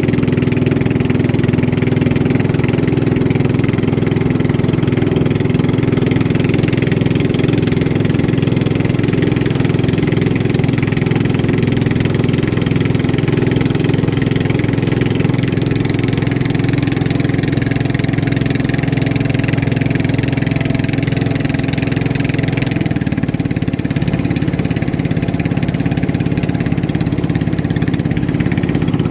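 Motorboat engine running steadily at speed, a loud constant drone that eases slightly about 23 seconds in.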